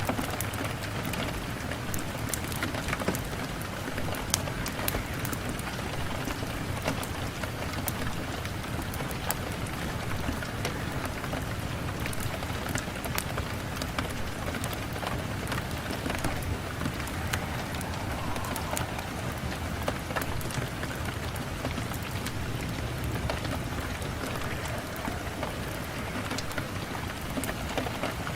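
Steady rain, as on a window, with frequent sharp ticks scattered through it.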